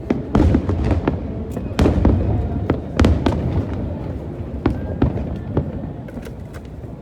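Aerial fireworks bursting in an irregular series of sharp bangs, several a second at times, over a continuous low rumble of the display.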